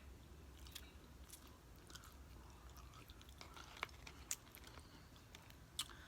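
Quiet chewing of nachos: faint scattered crunches and wet mouth clicks, with a few sharper clicks in the second half.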